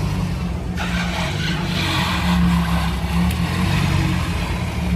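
Car engine running steadily at low revs, with a rushing noise that swells in about a second in.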